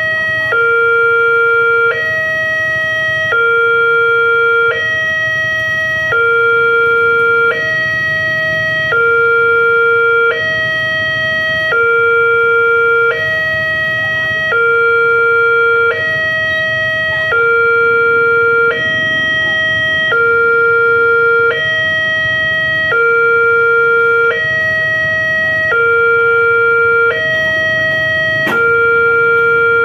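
Railway level-crossing warning alarm: a loud electronic two-tone signal alternating steadily between a lower and a higher note, each held about three-quarters of a second. It signals that a train is approaching and the crossing gates are closed.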